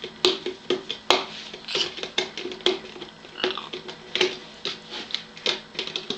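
Blue-and-gold macaw making an irregular run of short, sharp clicks and crackles, several a second.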